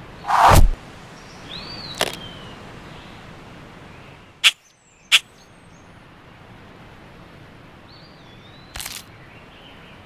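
Animation sound effects over a steady hiss: a loud swoosh falling steeply in pitch about half a second in, two short bird-like chirps, and a few sharp clicks, two of them about half a second apart in the middle.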